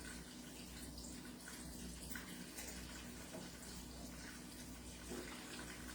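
Chicken pieces frying in oil in a skillet, a low, steady sizzle.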